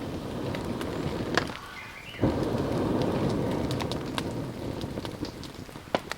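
Steady rain falling, with scattered sharp drop ticks. A louder rushing swell of rain noise comes in about two seconds in and slowly fades.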